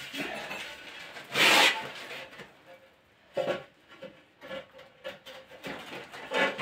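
Short scraping strokes of a hand tool on a hard surface, with one longer, louder scrape about a second and a half in, then several brief ones at roughly one-second intervals.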